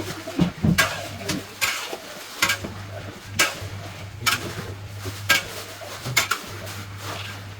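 Metal spatula stirring and scraping textured vegetable protein as it fries in oil in a wok, with sharp scrapes and clanks roughly once a second over a steady low hum.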